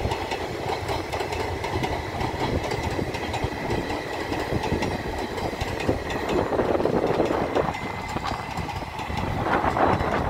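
Passenger express train rolling past close by, its wheels clattering over the rail joints in a steady stream of clicks that gets louder near the end.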